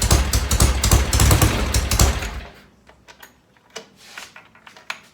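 1970 Norton Commando's parallel-twin engine idling with a regular exhaust beat, then shut off about two seconds in and dying away. A few light clicks follow near the end.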